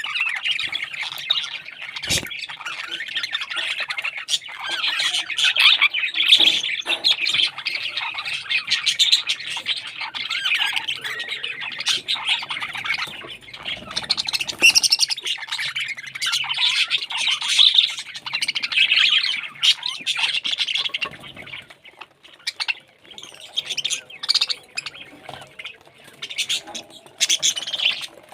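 Parrots squawking and chirping in a dense, continuous chatter that thins out in the last several seconds.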